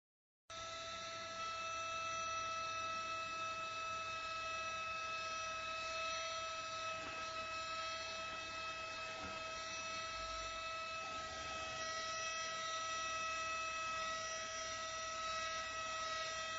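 ST6101 cordless stick vacuum cleaner running steadily: a motor whine with a strong fixed tone and its overtones over a hiss. It starts abruptly about half a second in.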